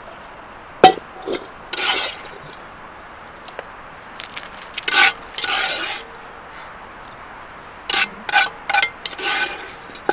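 A metal utensil scraping and knocking against a metal pot or dish, with faint ringing. It starts with one sharp knock about a second in, then comes in three bouts of scraping.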